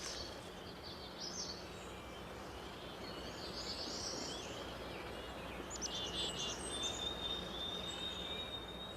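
Woodland ambience: small birds chirping and trilling over a steady hiss, with a long, high, even whistle near the end.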